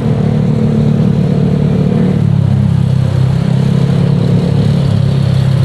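Honda Vario 125 scooter's single-cylinder engine running through an aftermarket Nobi Neo 3 Bold exhaust while riding, with a deep, bassy exhaust note. The engine pitch shifts about two seconds in, then holds steady.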